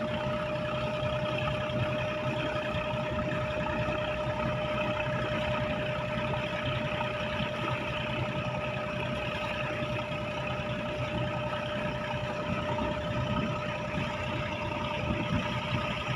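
Fishing boat's engine running steadily under way, a constant drone with a steady whine in it.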